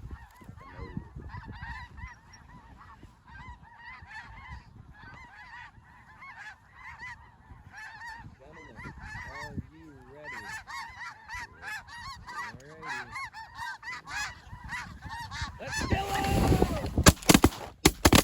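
A big flock of snow geese calling nonstop, a dense chatter of overlapping high honks. Near the end comes a loud rush of noise, then a quick volley of several 12-gauge semi-automatic shotgun blasts.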